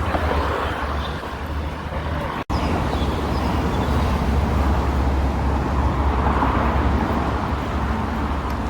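Street traffic noise: cars passing by over a steady low rumble, swelling as vehicles go past, with a momentary drop-out in the sound about two and a half seconds in.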